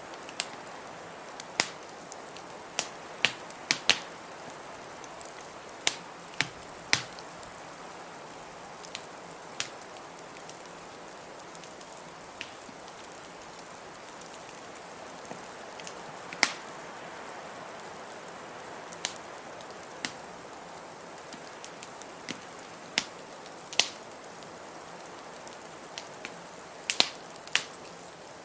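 Wood fire crackling in a fireplace: irregular sharp pops and snaps, sometimes two or three close together, over a steady hiss.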